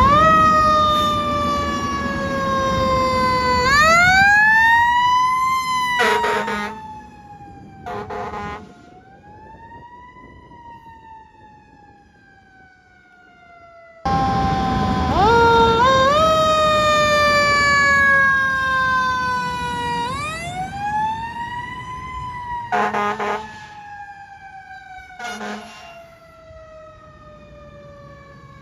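Fire engine siren wailing, its pitch sliding slowly down and up, with short horn blasts cutting in a few times. It fades away after about seven seconds, then comes back loud about halfway through and fades again.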